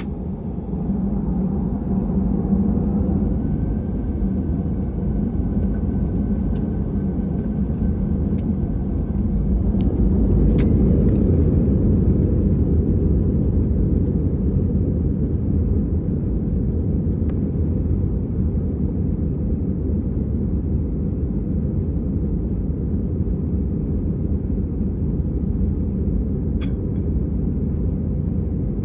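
Airbus A320 cabin on the takeoff roll: a steady rumble from the engines and the runway, which gets louder about a second in and again around ten seconds. A thin steady whine runs through the first several seconds, and there are a few light cabin rattles and clicks.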